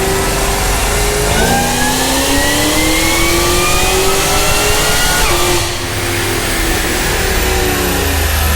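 Car engine making a pull on a chassis dyno. It runs steadily, then climbs in pitch for about four seconds under load. At about five and a half seconds the revs drop sharply and the engine runs on more steadily.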